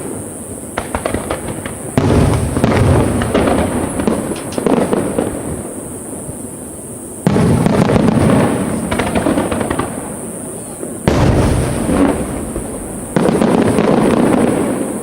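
Fireworks finale: four large shells burst with sudden loud bangs a few seconds apart, each followed by a long wash of crackling and rumble.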